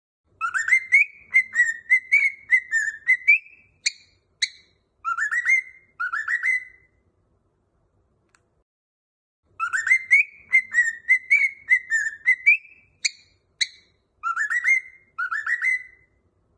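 Cockatiel whistling a short tune of quick rising, sliding notes. The same phrase plays twice with a pause of a few seconds between.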